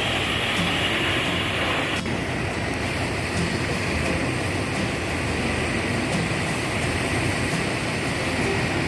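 Large tour bus's diesel engine running with a steady rumble; a hiss stops sharply with a click about two seconds in.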